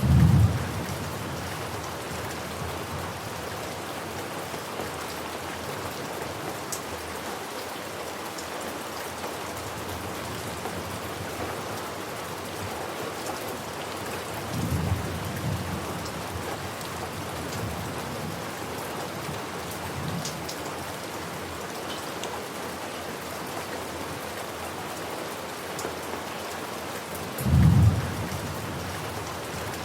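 Steady rain with thunder: a loud, short low rumble right at the start and another near the end, and a softer rumble about halfway through.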